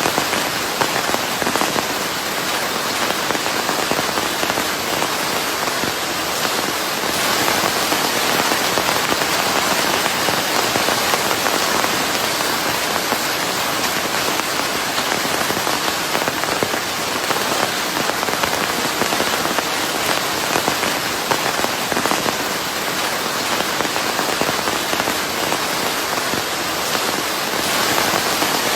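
Steady, even rain falling on a surface, a dense patter of drops with no pauses.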